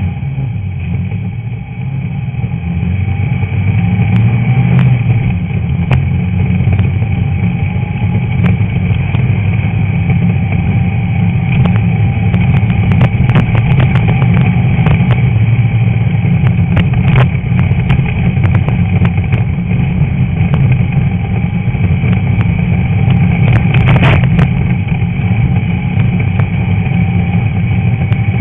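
Stock Volkswagen Beetle's air-cooled flat-four engine running hard under racing load. The engine builds over the first few seconds and then holds steady, with scattered sharp knocks.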